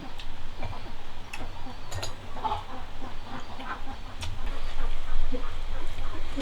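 Poultry calling, with scattered sharp clicks and knocks.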